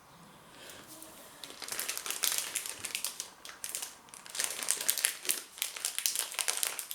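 Crinkling of a pork pie's wrapper being handled and opened, in irregular crackles. It is quiet for the first second and a half, then continuous to the end.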